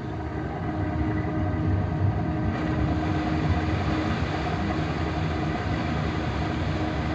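Ferry's diesel engines running steadily as it berths, a deep rumble with a steady hum, growing a little noisier about two and a half seconds in.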